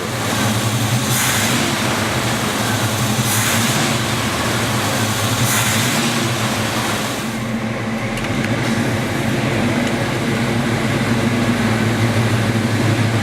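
1977 Chevrolet truck's engine running steadily, with three brief rushes of hiss about two seconds apart in the first half.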